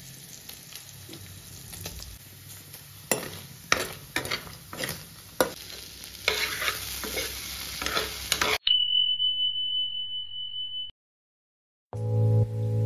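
Paneer and vegetables sizzling in hot oil in a kadai, with a steel ladle clacking and scraping against the pan as they are stirred; the sizzle grows louder a little past the middle. It then cuts off suddenly into a steady high electronic tone lasting about two seconds, a second of silence follows, and music with piano-like notes begins near the end.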